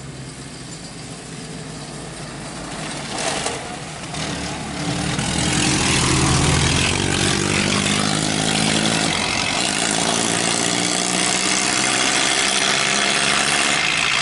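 Engines of two vintage Fiat racing cars, a 501 and a 509, running as the cars draw close and pull away, with a brief loud burst about three seconds in. The engines grow much louder from about five seconds in and cut off suddenly near the end.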